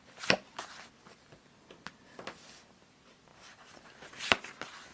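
Booster pack and trading cards being handled: a few short crisp rustles and taps scattered through, the sharpest just after the start and about four seconds in.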